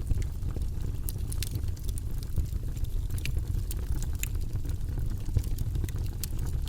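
Campfire crackling: irregular sharp snaps and pops, several a second, over a steady low rumble.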